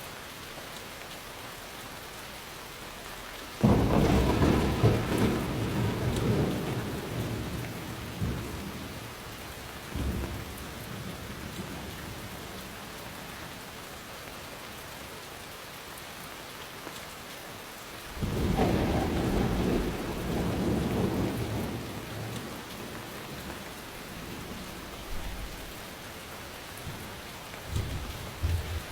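Steady rainfall with two loud rolls of thunder, each starting with a sudden crack and rumbling on for several seconds, and a few shorter, fainter rumbles between them.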